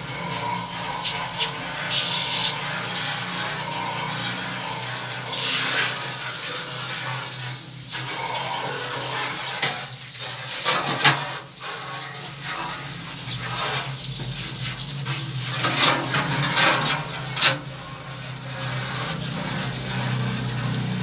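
Running water splashing unevenly, rinsing a window air conditioner being cleaned.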